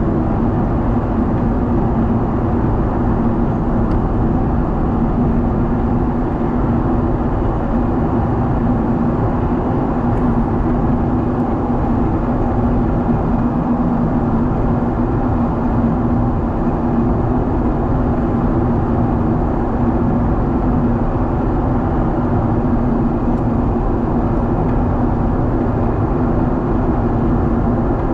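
Steady cabin noise of a Boeing 777 in flight: the drone of the jet engines and rushing air, with a constant low hum.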